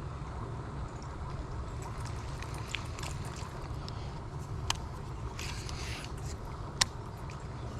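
Knocks and clicks of a kayak and fishing gear being handled over a steady low wind rumble on the microphone. Two sharp knocks come about two seconds apart in the second half, with a brief hiss between them.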